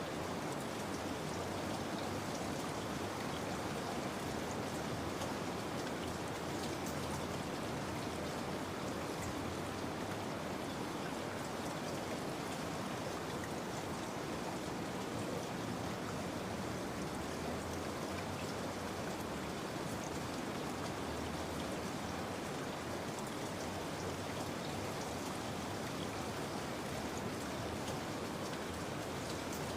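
Steady rain falling, an even hiss of drops with faint scattered patters throughout.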